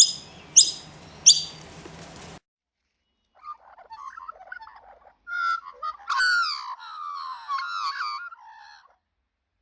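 A baby bird's begging calls: three sharp, high, falling chirps in quick succession, cut off after about two seconds. After a short gap comes a lower, squawking run of gliding calls from a different chick, loudest near the middle, fading out about nine seconds in.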